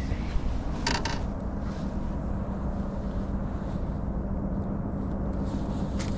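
Boat motor running with a steady low hum and a constant tone, with a short burst of clicking and rubbing about a second in.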